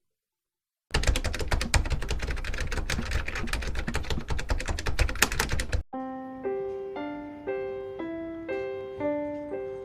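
Heavy rain pattering hard, a dense rush of drops over a low rumble, that starts suddenly and cuts off abruptly after about five seconds. Gentle piano music follows, one note about every half second.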